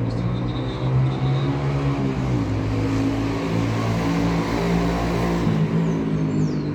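A motor vehicle's engine running steadily, its pitch shifting slightly a couple of times, with a swell of road noise in the middle.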